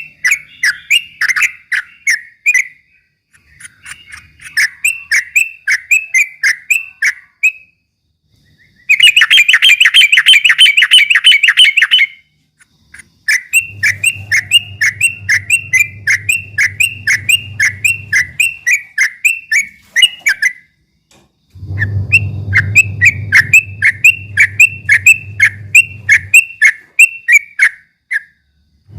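Yellow-vented bulbul (trucukan) singing its rapid 'ropel' song: phrases of quick repeated chattering notes, about three a second, each phrase lasting a few seconds with short pauses between. About a third of the way in comes a louder, denser burst of notes, and a low hum sits under two of the later phrases.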